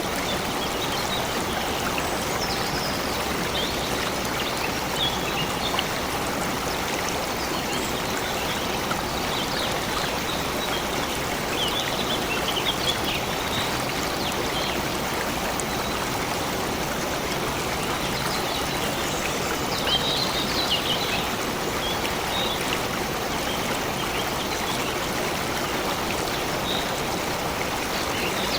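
Steady rush of a flowing stream, with small birds chirping briefly now and then over it.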